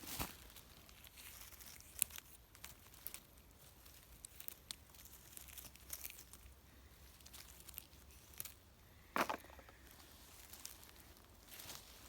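Light rustling and crackling of low forest-floor plants being handled or stepped through, with scattered small snaps and one longer crunch about nine seconds in.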